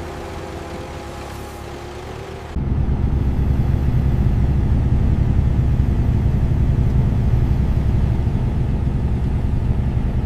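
Heavy machinery running. About two and a half seconds in, a sudden cut switches from a quieter machine sound with a few steady tones to a much louder, deep, steady rumble.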